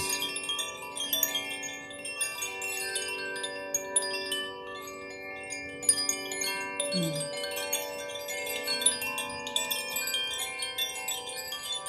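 Wind chimes tinkling continuously over many long, steady ringing tones that overlap, with a short falling low tone about seven seconds in.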